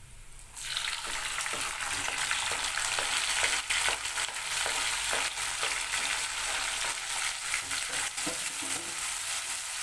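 Sliced chilies and tomato hitting hot oil in a wok with fried shallots: a loud sizzle that starts suddenly about half a second in and keeps going. A black spatula stirs and scrapes them round the pan, adding many short clicks and scrapes.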